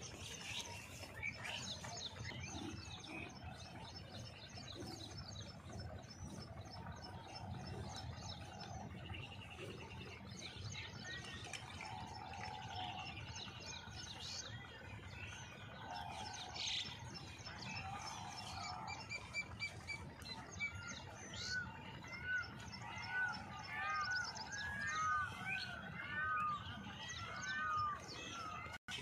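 Several birds chirping and calling, with many short high chirps. In the last third comes a quick run of repeated arching whistled notes. A low steady rumble runs underneath.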